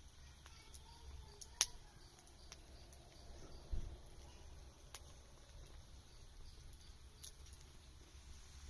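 Wood campfire crackling faintly, with scattered sharp pops, the loudest about a second and a half in. A low thump comes a little under four seconds in.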